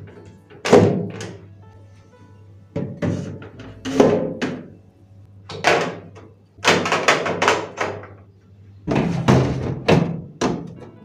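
A series of sharp knocks and clattering thunks from items being handled and set down during refrigerator cleaning and organizing, about a dozen in irregular clusters, some in quick runs.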